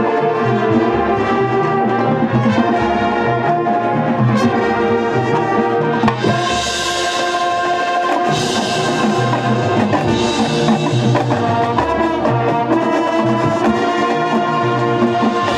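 High school marching band playing: brass horns with drums, with cymbal crashes about halfway through.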